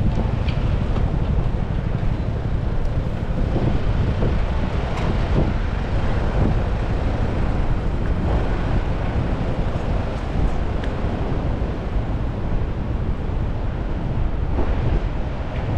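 Strong wind rumbling on the microphone over the steady hiss of rain and traffic on a wet city street, with a few faint ticks.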